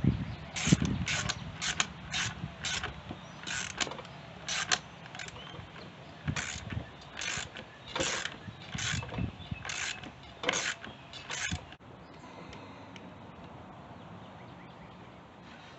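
Hand ratchet wrench worked in short strokes, a dozen or more rasping clicks in an uneven rhythm, then it stops about twelve seconds in.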